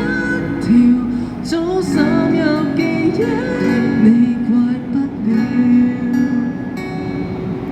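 Live acoustic guitar strumming with a voice singing a gliding melody over it.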